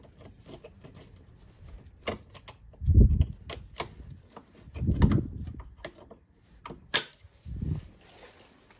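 Clicks, knocks and rattles of hand tools and parts being handled, with a few dull low thumps, a sharp click about seven seconds in.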